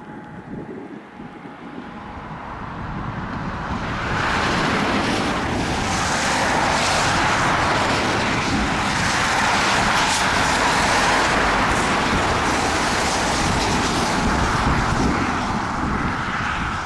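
Turboprop airliner's engines and propellers, growing louder over the first few seconds, then staying loud and steady.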